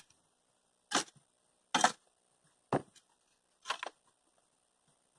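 Four sharp knocks of a tool striking old wood, about a second apart.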